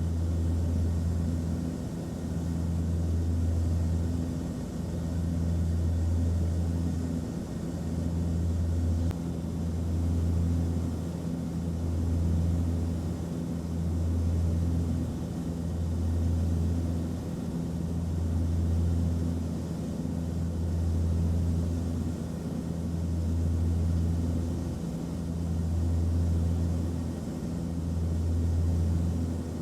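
Aircraft cabin noise: a steady engine drone with a low hum that swells and fades about every two seconds, over a faint even hiss.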